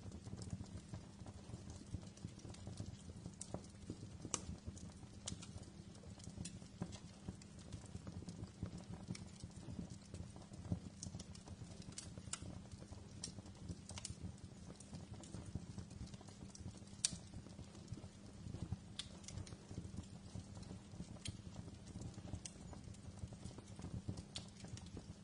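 Wood fire crackling in a fireplace: irregular sharp pops and snaps over a low steady rumble of the burning logs, with a louder pop about 17 seconds in.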